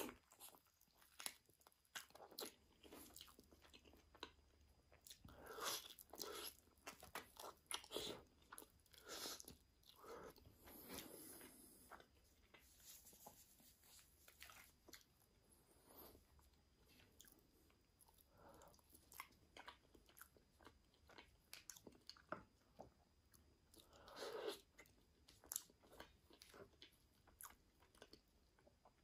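Close-miked eating: crisp crunching bites and chewing that come in clusters separated by short quiet gaps.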